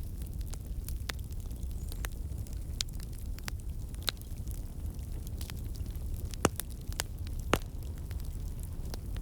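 Wood fire crackling in a fireplace: a steady low rumble of flame with scattered sharp snaps, and two louder pops about two-thirds of the way through.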